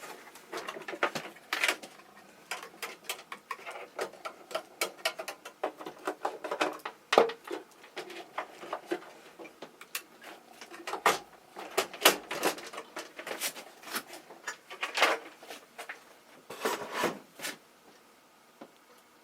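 Irregular series of clicks and knocks, a few a second, with louder knocks about halfway through and again near the end.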